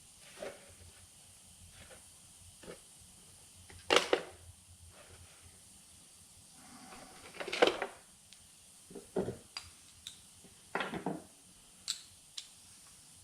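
Metal parts of a GM alternator and hand tools clinking and knocking against each other as they are handled during reassembly: about six separate sharp knocks, the loudest about 4 s and 7.5 s in.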